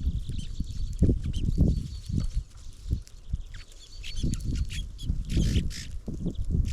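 Small songbirds chirping, with short high notes and a thin sustained high tone, over irregular low thumps and rumbles that are the loudest sound throughout.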